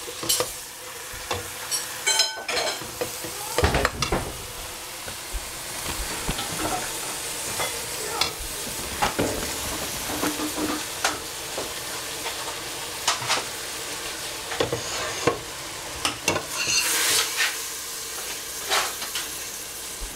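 Lettuce sizzling in a stainless steel pot on the stove while it is stirred, with repeated clinks and scrapes of the spatula and a metal ladle against the pot. One clink rings out about two seconds in.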